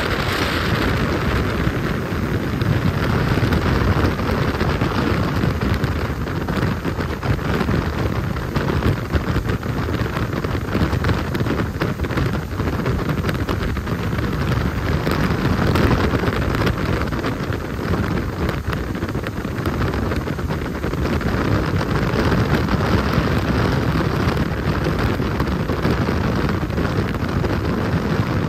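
Jet boat running at speed across the lake, a steady, loud rush of engine and water with heavy wind buffeting the microphone.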